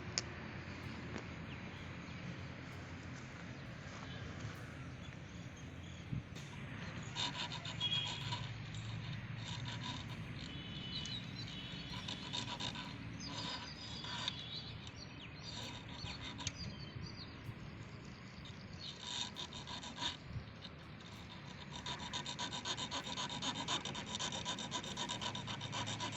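Rasping hand-tool strokes on metal, quick scraping or filing strokes coming in runs with pauses between, faint at first and busiest in the last few seconds; work on the engine's parts after the piston rings were found jammed.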